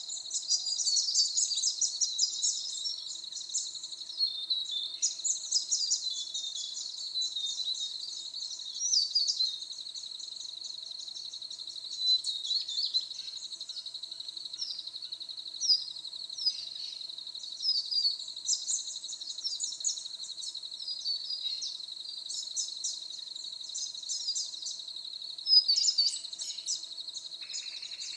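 Forest birds singing, with many quick high chirps and short phrases coming in repeated bursts. Underneath runs a steady, unbroken high-pitched insect trill.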